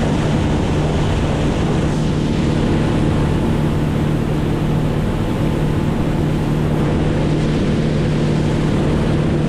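Motorboat engine running at a steady speed, with wind on the microphone and water rushing past the hull.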